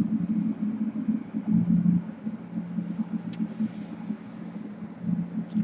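Steady low machine hum running throughout, with a few faint clicks from small parts being handled, one a little past the middle and one near the end.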